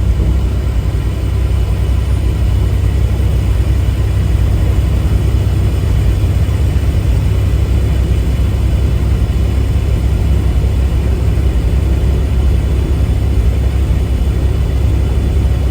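Tractor-trailer cruising, a steady low engine and road rumble heard from inside the cab.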